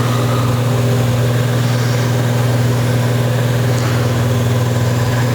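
A loud, steady low hum with a few evenly spaced higher overtones, unchanging throughout and cutting off abruptly at the end.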